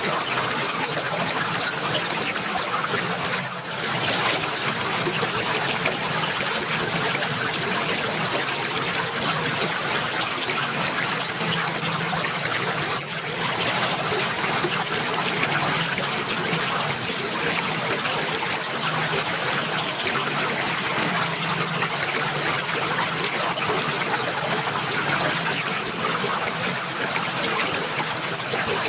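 Water running steadily in a constant trickling, splashing rush, like a small stream or cascade.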